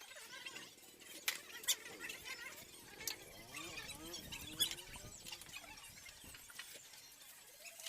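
Hand tools working on an Isuzu 4HK1 diesel engine as it is taken apart: scattered sharp metal clinks, with a wavering squeak through the middle.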